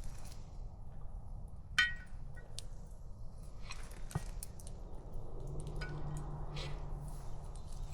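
A single sharp metal clink with a brief ring about two seconds in, from camp cookware being handled while cooking in a Dutch oven over a campfire. Faint scattered clicks and a steady low rumble sit underneath.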